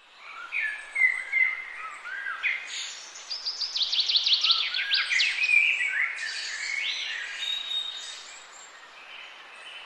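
Songbirds singing and chirping, several overlapping calls, with a fast run of repeated high notes in the middle. A faint steady hiss lies under them.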